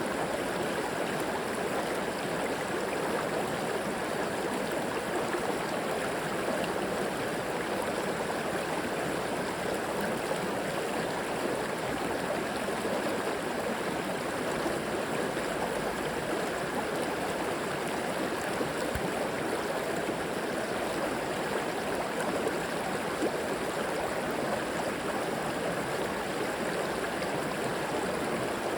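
River water flowing and splashing steadily over rocks.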